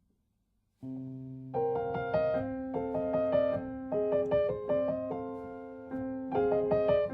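Background piano music. A new piece starts about a second in after a brief silence, opening on a held low note, then a repeating pattern of piano notes over it.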